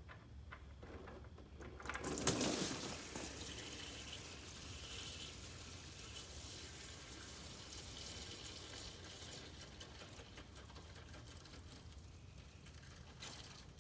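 Diesel fuel used as a flush gushing out of the tractor's rear-end drain into a container, starting with a splash about two seconds in and then running as a steady pouring stream.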